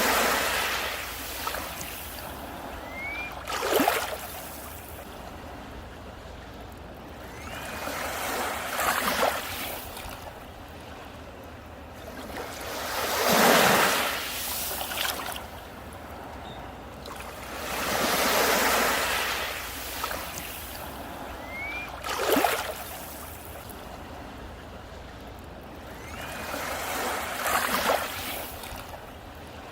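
Sea waves breaking on a beach and washing back, one surge every four to five seconds. Some land with a sharp crash, and the biggest comes about halfway through.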